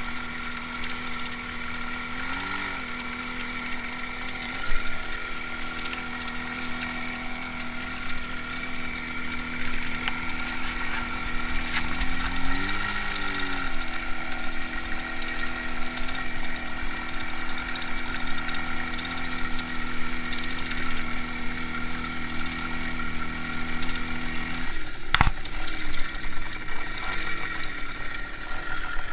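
IZh Jupiter-5 motorcycle's 350 cc two-stroke twin engine running under way, its steady note briefly swelling up and falling back twice. Near the end the low note drops away and a single sharp knock is heard.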